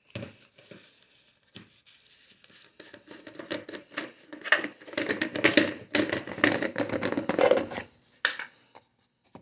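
Hands working a supplement container and its scoop. A few light taps at first, then a busy run of scratching and clicking lasting several seconds, fading out near the end.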